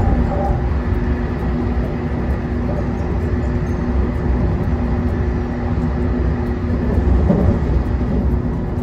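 JR Kyushu 813 series electric train running at speed, heard from inside the car: a steady low rumble of the wheels on the rails with a steady hum over it, swelling briefly about seven seconds in.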